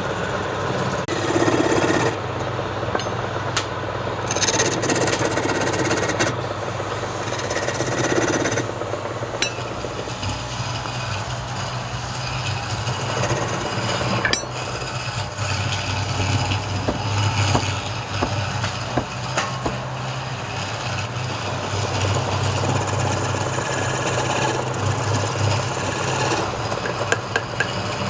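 Wood lathe running with a steady motor hum while a turning tool cuts and scrapes the spinning wood in uneven passes, the scraping sharpest in several stretches during the first nine seconds.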